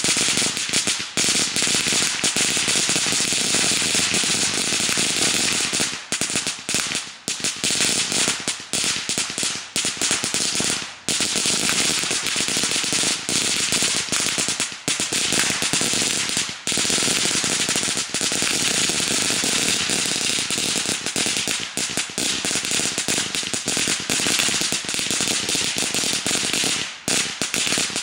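A long string of firecrackers going off in a continuous, rapid crackle of sharp bangs, with only brief momentary gaps.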